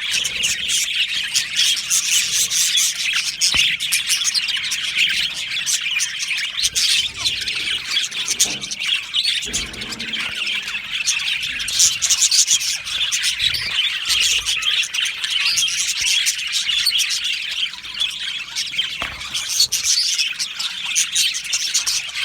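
A flock of budgerigars chirping, warbling and squawking together in a dense, continuous chatter.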